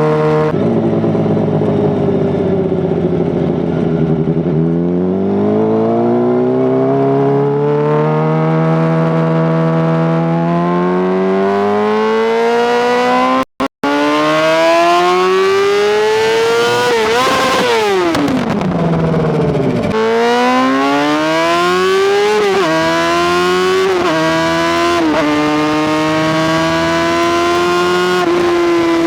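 Honda CBR600RR's inline-four engine accelerating, the revs climbing for a long stretch, then falling as the throttle comes off. It then pulls hard again through four quick upshifts, each a short dip in pitch.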